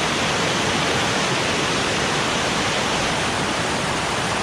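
Waterfall: water pouring and splashing over rocks close by, a steady even rush.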